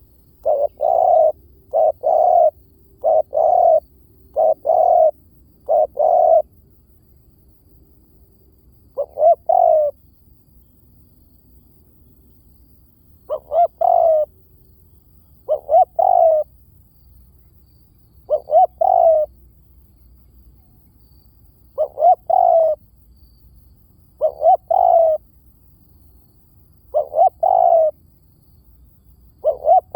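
Spotted dove cooing over and over: a quick run of short paired coos in the first six seconds, then a coo phrase about every two to three seconds.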